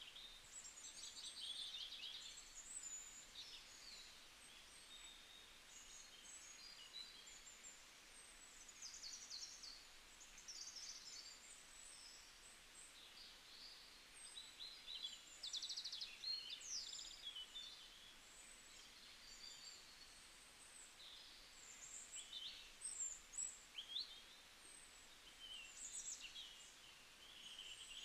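Faint chirping and twittering of small birds, many short high calls overlapping.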